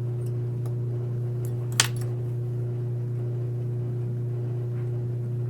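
Steady low hum throughout, with one sharp click a little under two seconds in and a few faint ticks, from small parts of a Seiko quartz watch movement being handled during disassembly.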